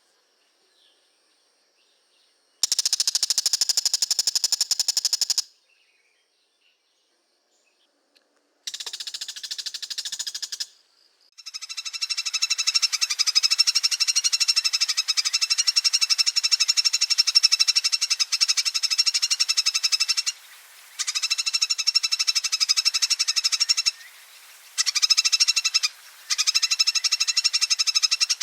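Oriental magpie-robin giving fast, rattling chatter calls ('ngekek'): two short bursts, about three and nine seconds in, separated by silence, then a long run of chatter from about eleven seconds on, broken by a few brief pauses.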